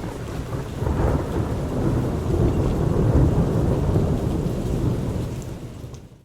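Thunderstorm: a long rumble of thunder over steady rain, swelling about a second in and fading away near the end.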